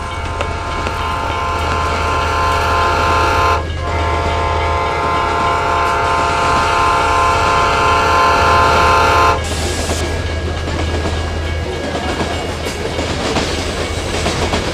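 A train whistle sounds two long, steady blasts, the first cut off briefly after about three and a half seconds. The second stops at about nine seconds, and the rolling clatter of train carriages with a clickety-clack on the rails follows. A steady low hum runs underneath.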